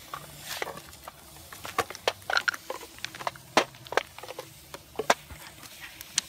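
A small twig-and-leaf fire crackling, with irregular sharp pops and ticks.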